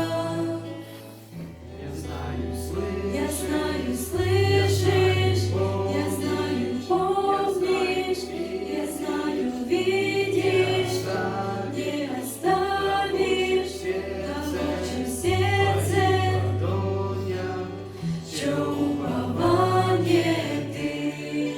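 Church choir singing a slow worship song over held bass notes that change every few seconds.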